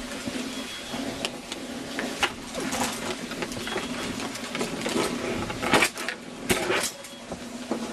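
Clothes and debris being handled: scattered rustles and knocks, a cluster of louder ones about six to seven seconds in, over a steady low hum.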